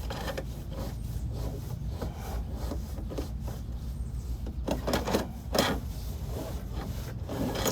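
An inspection camera scraping and rubbing inside a lint-clogged dryer vent duct, over a steady low hum. The scraping comes in short bursts, twice about five seconds in and again near the end.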